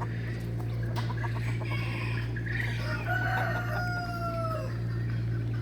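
Penned poultry clucking and calling, then a rooster crows once about three seconds in: one long call that falls slightly at the end. A steady low hum runs underneath.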